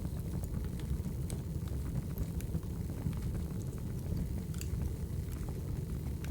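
Wood fire burning in a fireplace, with a steady low rumble and scattered sharp crackles and pops at irregular intervals.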